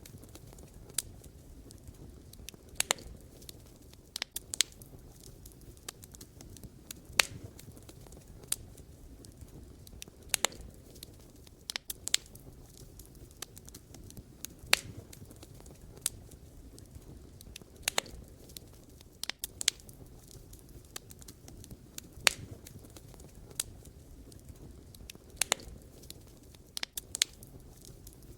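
Wood fire burning, with sharp irregular crackles and pops of burning logs over a low steady hiss.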